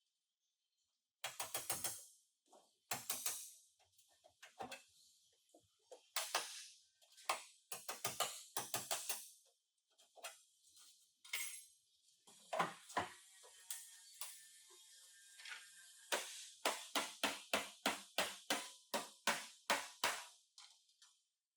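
A series of sharp knocks and strikes, like hand tools on car body metal: irregular at first, then a fast run of about three blows a second for the last five seconds.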